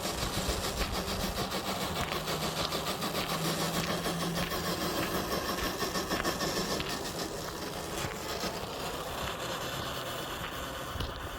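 Motor and gears of an FMS FJ40 RC crawler whining as it drives, with a dense crackling rattle of the truck working over the ground; it eases somewhat after about eight seconds.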